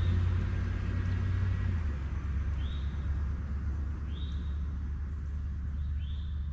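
Van engine running with a steady low hum that drops in pitch about two seconds in, as it eases off. Short high chirps come every second or two.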